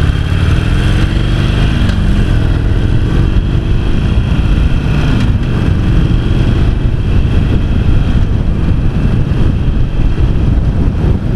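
Harley-Davidson Sportster 883's Evolution V-twin running on its standard exhaust pipes while riding, heard from the bike with heavy wind rumble on the microphone. The engine note rises for the first two seconds, then drops back and carries on at a steady cruise.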